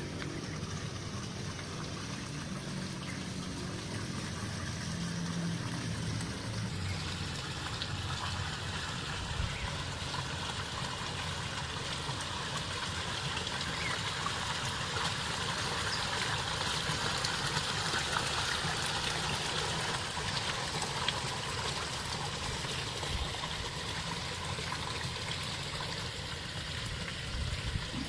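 Water falling down an artificial rock-cliff waterfall into a koi pond, a steady rush with a low rumble underneath; about seven seconds in, the rush turns brighter.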